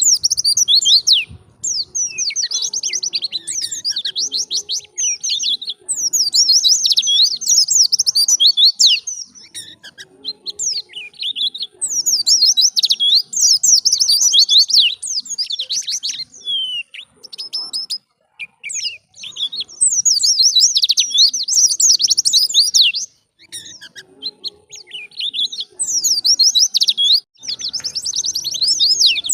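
White-eye (pleci) singing fast, high, warbling 'ngalas' song phrases, each lasting two to four seconds, with short pauses between them.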